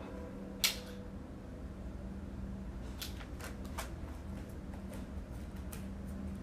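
Quiet room tone with a steady low hum and a few soft clicks: one about half a second in and two around three to four seconds in.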